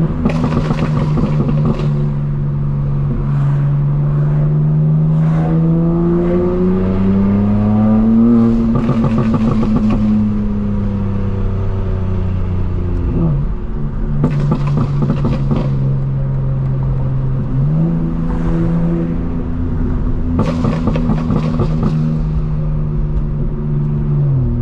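Straight-piped BMW M4 Competition's twin-turbo inline-six driving in traffic. The engine note climbs twice under throttle and drops sharply at the shifts, with several short bursts of exhaust crackle.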